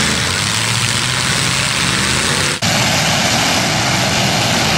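Engines of several demolition derby cars running together, a loud dense steady engine noise, with a brief dropout and an abrupt change in the mix about two and a half seconds in.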